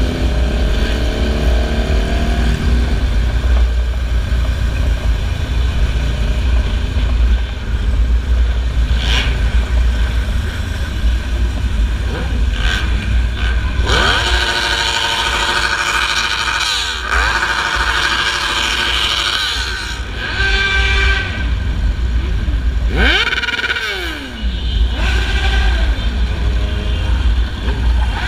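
Motorcycles running on the road with a heavy low rumble throughout. Engine pitch climbs and drops several times as the revs rise and fall, loudest about halfway through.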